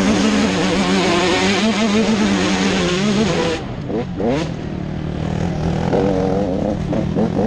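Motocross motorcycle engines at high revs, loud and close. A little past halfway the sound drops and the engine pitch sweeps down and back up, and the revs climb again near the end.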